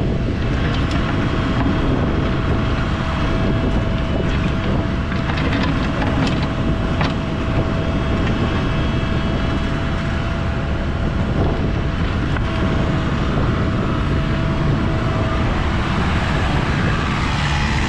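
Cat mini excavator's diesel engine running steadily, with a thin steady whine that stops near the end and a few sharp clicks, and wind on the microphone.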